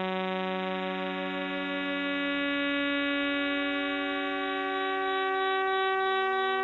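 Radio recordings of the millisecond pulsars in the globular cluster 47 Tucanae played as audio, each pulsar's rapid spin heard as a pitch: together a steady chord of many held tones, like a sustained organ or string drone. The lowest notes shift at the start and again about six seconds in.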